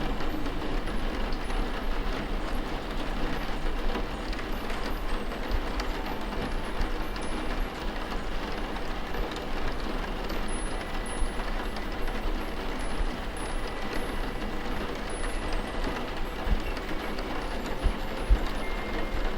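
Steady rain ambience with a low rumble underneath and a few scattered soft clicks, at an even level throughout.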